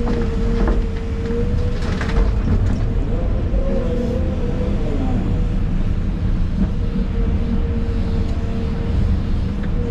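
Excavator's diesel engine and hydraulics running under load, heard from inside the cab: a heavy low rumble with a steady whine that wavers and dips briefly near the middle, and a few knocks in the first few seconds.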